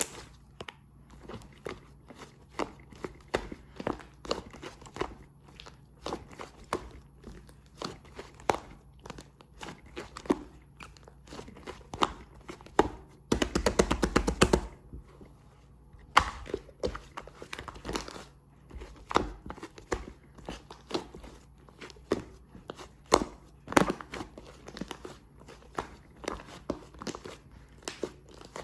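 Clay slime being squeezed and pressed by hand, giving irregular sticky clicks and pops, with a fast run of rapid pops about 13 seconds in.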